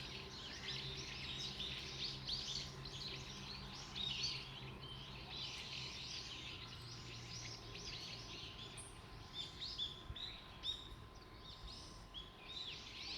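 A flock of small birds chirping continuously, many short high calls overlapping.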